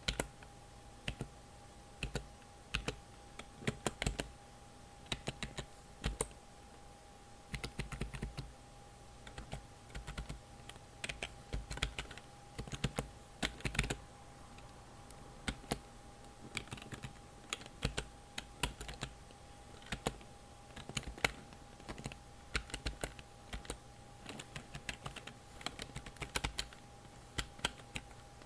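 Computer keyboard being typed on, key clicks coming in irregular bursts of several strokes with short pauses between them.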